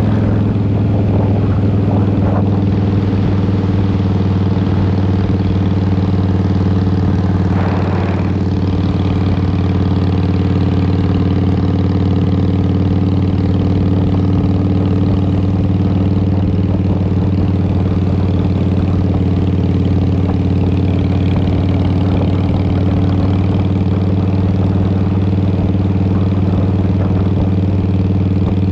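2003 Harley-Davidson Fat Boy's Twin Cam 88 V-twin running at a steady engine speed through a Vance & Hines exhaust.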